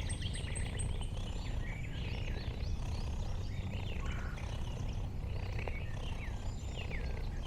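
Wild birds chirping and calling, with short quick notes and downward-sliding calls, over a steady low rumble.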